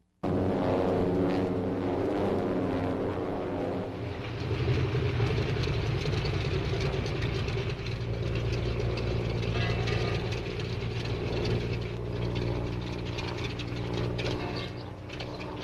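Propeller airplane engine running steadily, starting abruptly after a cut and growing stronger and lower about four seconds in, as on an old film soundtrack.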